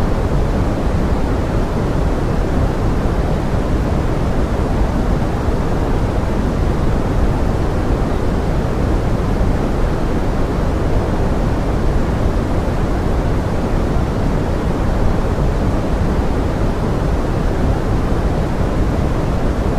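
Steady pink noise blended with forest rain: an even, unbroken rushing hiss, weighted toward the low end, with no separate drops or other events.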